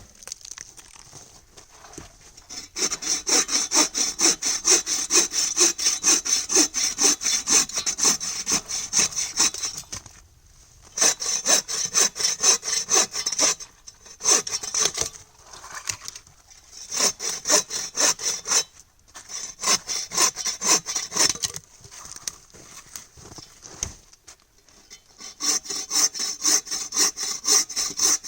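A hand saw cutting through wood with quick back-and-forth strokes, in several runs with short pauses between them.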